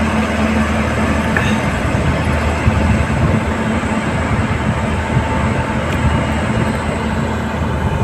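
Passenger train hauled by a WAP-7 electric locomotive moving slowly along the platform: a steady, even rumble and hum from the locomotive and coaches rolling on the rails.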